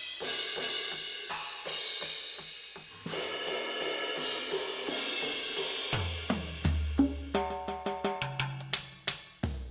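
NUX DM-8 electronic drum kit being played: a busy beat with ringing cymbals and hi-hat, then, about six seconds in, deep kick and tom strokes in quick succession.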